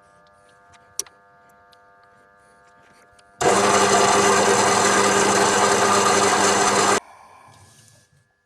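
A machine tool's motor runs with a faint steady hum. About three and a half seconds in, loud cutting of the metal part begins as it is faced and drilled, and it stops abruptly after about three and a half seconds.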